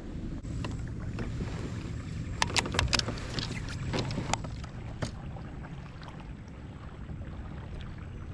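Kayak moving across the water, with steady water noise along the hull and a quick run of sharp clicks and knocks about two and a half to three seconds in, and a couple more around four and five seconds.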